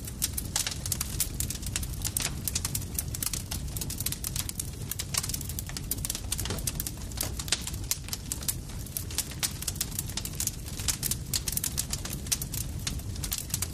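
Campfire crackling, with frequent sharp pops and snaps over a steady low rumble of the burning fire.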